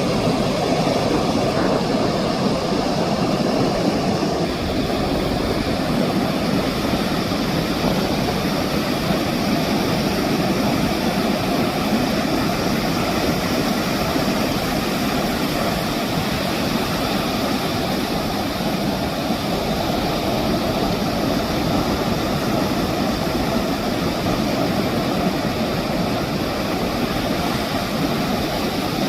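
Ocean surf breaking on a sandy beach: a steady, continuous roar of waves with no distinct crashes standing out.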